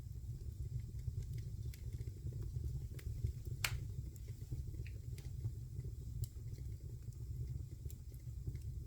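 Wood fire crackling in a fireplace: a steady low rumble of the flames with scattered sharp pops and ticks, one louder pop about three and a half seconds in.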